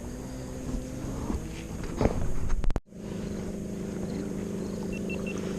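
Steady drone of a distant motorboat engine, broken by a brief cut partway through. Three faint short beeps sound near the end.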